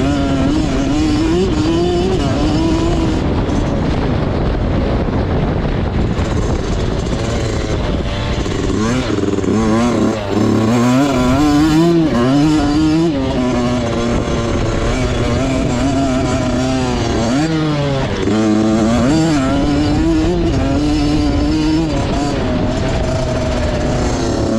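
Motocross bike engine running hard on a dirt track, its pitch climbing and dropping over and over as the throttle opens and closes and it shifts gears, with a steady rush of noise behind it.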